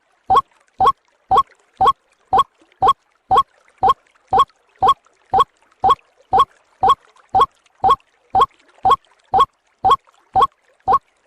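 White-breasted waterhen (ruak-ruak) lure recording: a short, slightly rising call note repeated about twice a second at a perfectly even pace, as a looped bird-luring call.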